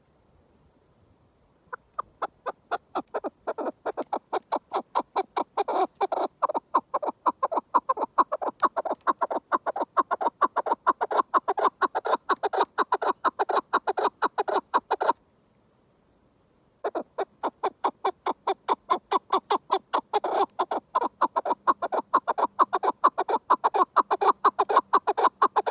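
Chukar partridge calling in a long, rapid series of repeated notes, several a second. The series breaks off abruptly about halfway through and starts again about two seconds later.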